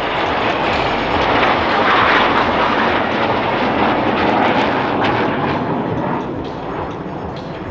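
Loud jet noise from BAE Hawk Mk65 jet trainers and their Rolls-Royce Adour turbofans passing in a display, a steady rushing roar that fades gradually near the end.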